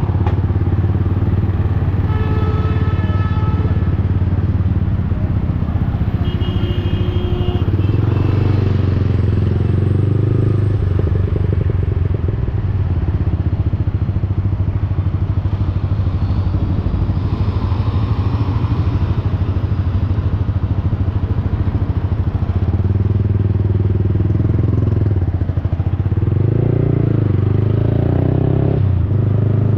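Yamaha XSR155's single-cylinder engine running through an aftermarket Akrapovic-style exhaust while riding in city traffic, its note rising and falling with the throttle, with wind rushing over the helmet-level mic. Two short horn-like tones sound, about two and about six seconds in.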